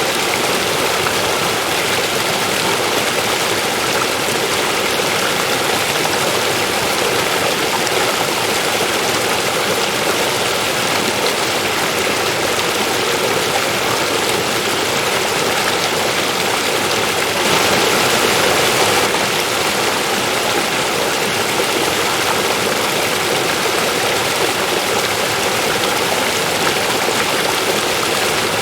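River water flowing over rocks: a steady, even rushing, with a brief slightly louder swell about two-thirds of the way through.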